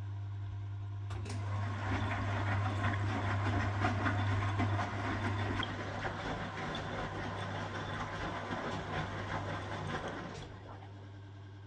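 1969 Zanker VA520 washing machine running: a steady low motor hum, with a noisy churning that comes in about a second in and dies away near the end.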